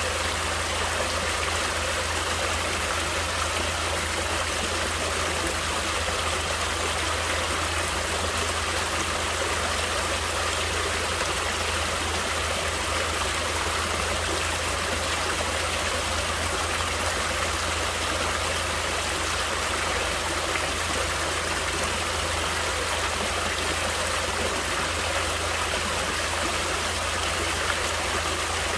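Natural stream water flowing, an even, unbroken wash of water noise.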